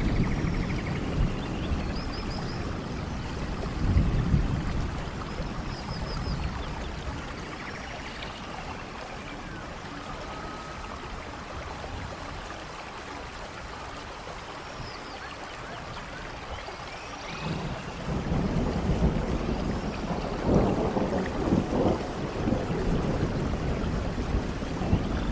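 Rain falling steadily in a rainforest thunderstorm, with rolling thunder. Low rumbles come near the start and about four seconds in, the storm eases through the middle, and a longer, louder rumble builds from about two-thirds of the way through. Faint short high chirps sound now and then above the rain.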